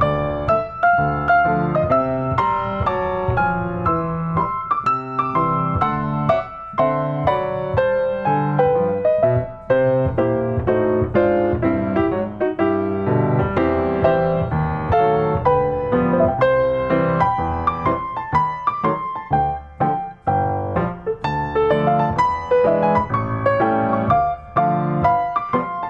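Background piano music: a steady stream of notes.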